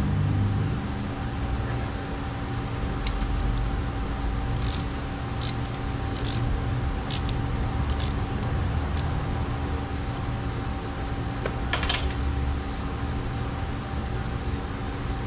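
Light metallic clicks and clinks of hand tools and parts being handled on an outboard's lower unit, about eight scattered ticks then one louder clink later, over a steady low hum.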